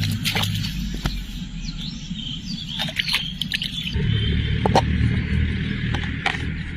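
Birds chirping and calling in short, quick notes, with a low steady hum that comes up about four seconds in.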